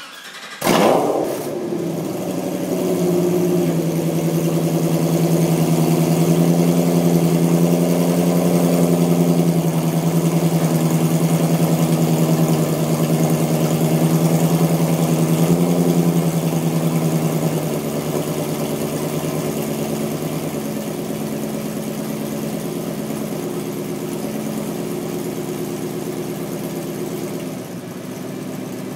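Ford GT's supercharged 5.4-litre V8 cranking and catching about a second in, then idling through newly fitted Borla/FRPP M-9430GTX rear-exit headers on its first start-up with them. The idle runs raised and louder at first, then settles lower at about 17 seconds and drops a little again near the end.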